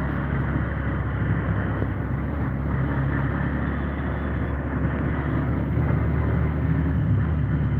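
Steady vehicle engine and road rumble with a low hum, unbroken throughout.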